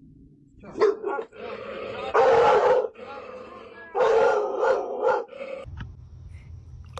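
A dog barking and howling in a few loud calls, the longest starting about four seconds in and lasting over a second.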